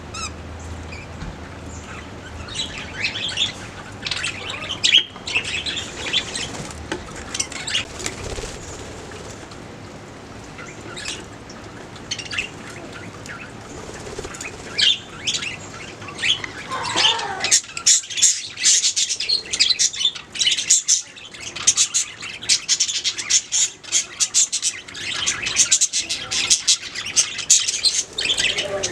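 Budgerigars chirping and chattering in short high chirps, sparse at first and turning into a dense, rapid run of chirps and clicks about halfway through.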